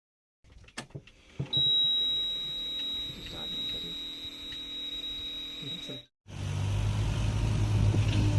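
A steady high-pitched tone for several seconds, cut off sharply. After a brief gap, a heavy diesel engine starts a steady low running note with an even throb, from the backhoe loader or a tractor.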